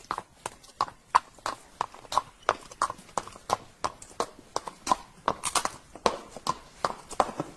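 Horse hooves clip-clopping in a steady rhythm, about three hoofbeats a second.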